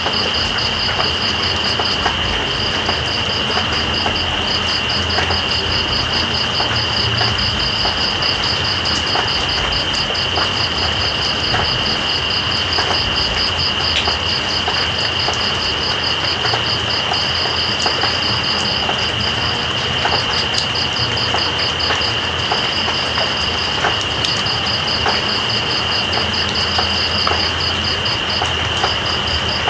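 Steady rain with night insects calling: one continuous high trill and, above it, a rapidly pulsing chirp that breaks off and resumes several times.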